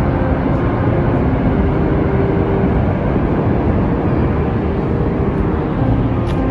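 Steady, loud low roar of Niagara Falls, the water of the falls thundering without a break.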